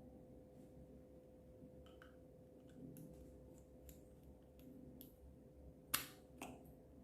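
Slime being worked by hand, giving scattered faint sticky clicks and small air-bubble pops, with one sharper pop about six seconds in and a smaller one just after.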